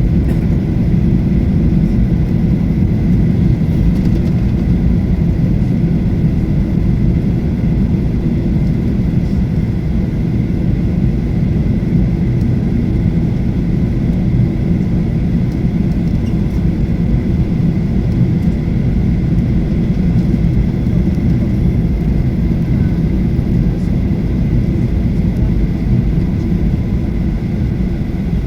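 Steady cabin noise of a Boeing 737-800 in flight or on its takeoff run: a loud, even low rumble of its CFM56-7B engines and airflow, with a faint steady whine above it.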